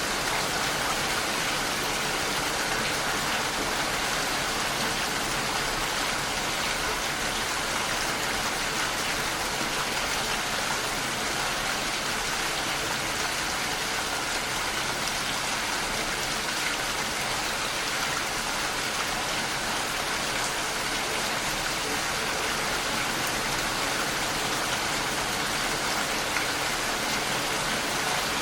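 Steady, even rain, an unbroken hiss of falling rain with no single drops or events standing out.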